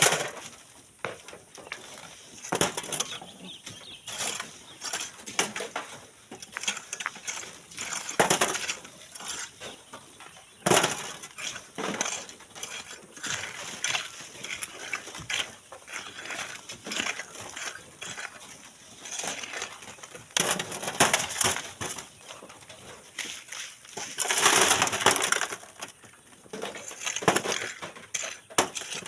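Shovels biting into gravelly sand and throwing it into a truck bed: repeated crunching, scraping and stone-on-metal clinks every second or two, with a longer rush of pouring grit near the end.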